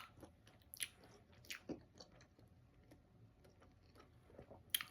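A person chewing food close to the microphone, faint, with a few short wet mouth clicks.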